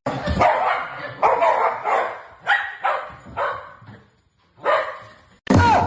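A dog barking repeatedly, a bark about every half second, with a short pause before the last few barks.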